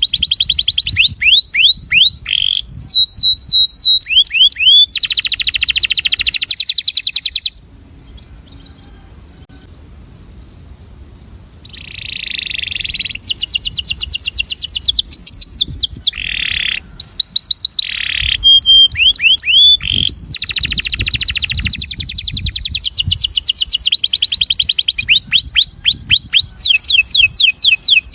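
Male canary singing fast rolling trills of rapidly repeated down-sweeping notes, with changes of phrase and a pause of a few seconds about a quarter of the way in. This is a breeding male's courtship song, sung to attract a female.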